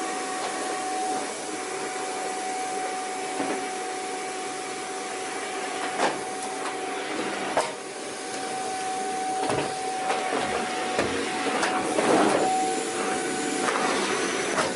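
Vacuum cleaner running, a steady motor whine over a rushing air noise. There are two sharp knocks about six and seven and a half seconds in, and the sound grows rougher and more uneven in the second half.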